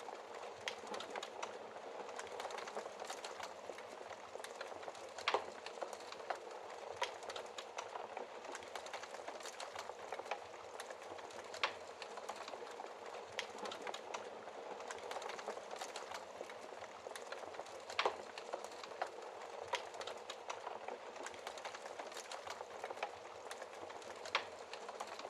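Wood fire in a fireplace crackling: a steady hiss of burning with irregular sharp pops and snaps, a few louder ones spread through.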